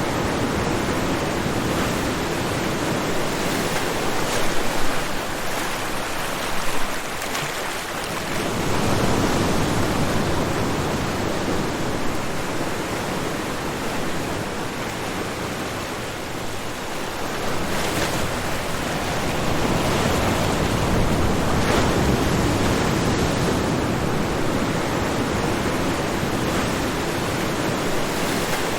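Ocean surf breaking on a shore: a continuous rushing hiss that swells and ebbs as waves roll in, with a couple of louder wave crashes in the first quarter.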